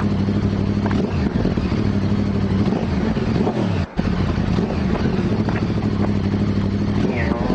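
An engine running at a steady pitch, with a brief break about four seconds in.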